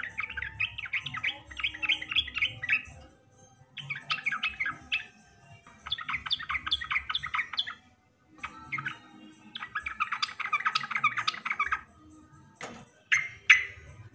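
Sooty-headed bulbul (trucukan) singing in four bursts of rapid, chattering notes, each burst lasting one to two seconds with short gaps between, followed by two short, sharp loud calls near the end.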